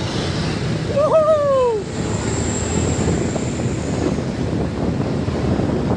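Diesel engine of a loaded log truck running steadily as it goes by, with a short falling tone about a second in and a thin high whine from about two to four seconds.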